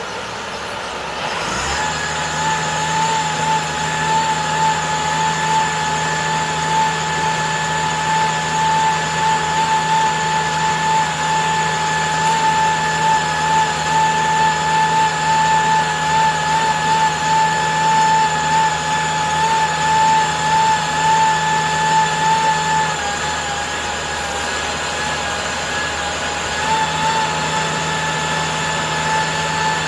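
A machine running steadily with a high, slightly wavering whine over a low hum. The whine starts about a second and a half in, eases off for a few seconds near the end, then picks up again.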